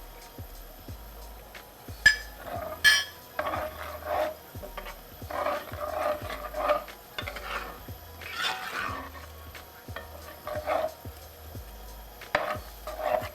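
A utensil stirring and scraping in a cooking pan, with two sharp clinks of metal on the pan a couple of seconds in and more scattered knocks and scrapes after.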